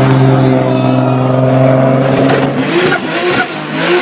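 Car engine and exhaust held at steady high revs, then dropping and wavering in pitch as the throttle is worked about two and a half seconds in.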